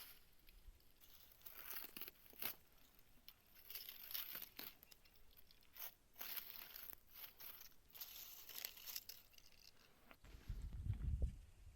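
Dry crackling, tearing and crunching rustles in irregular bursts, with a short low rumble near the end.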